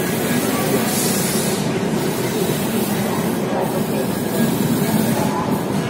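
Steady running noise of a moving passenger train heard from an open coach door: wheels rumbling on the rails with rushing air, and a brief louder hiss about a second in.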